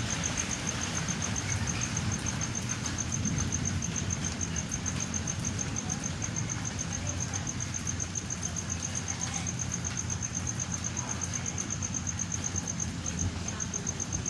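A cricket chirping in an even, high-pitched pulse of about five chirps a second, with a brief break near the end, over a steady hiss and low rumble of storm ambience.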